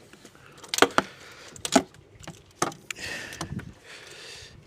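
Hand tools knocking and clinking as they are handled, about four sharp strikes in the first three seconds, followed by some rustling.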